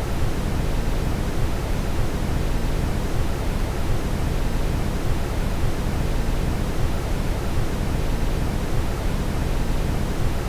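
Steady brown noise: an even, unchanging rush weighted toward the low end.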